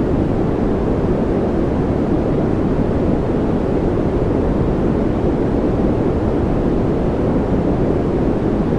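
Continuous masking noise track: an even, unbroken hiss-like rumble with its weight in the low and middle range and little treble, a deep form of white noise.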